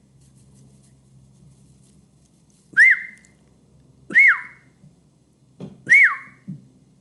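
Three short whistled peeps, each rising and then falling in pitch, about a second and a half apart, imitating baby chicks as they hatch. A few soft knocks come near the end.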